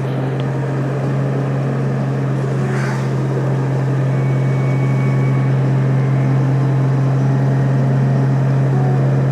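Motorcycle engine running at a steady cruise with a constant low hum, under a haze of road and wind noise, growing slightly louder.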